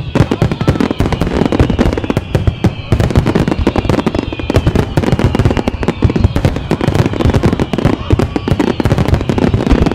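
Fireworks going off in a dense, continuous barrage of rapid bangs and crackles, with whistles that fall in pitch.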